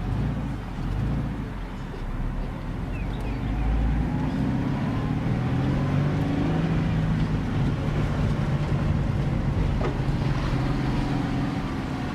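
Scion FR-S's flat-four engine running as the car drives, its note rising a few seconds in and then holding steady under way.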